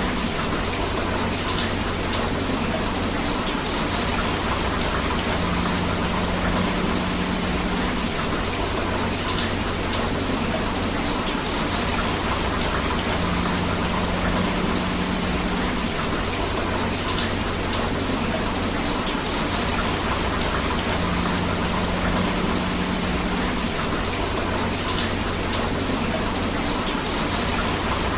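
Steady rain mixed with a rushing river: an even, unbroken wash of water noise, with a faint low tone that comes and goes about every eight seconds.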